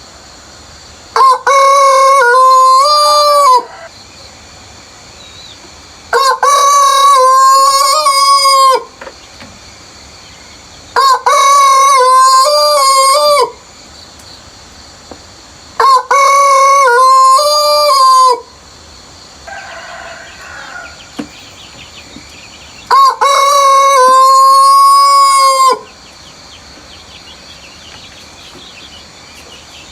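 Rooster crowing five times, each crow a loud cock-a-doodle-doo of about three seconds, repeated roughly every five seconds with a longer pause before the last.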